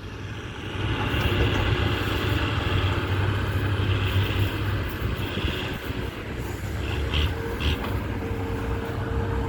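Heavy earthmoving machinery's diesel engine running steadily, a deep rumble under a broad mechanical noise, with two brief higher-pitched sounds about seven seconds in.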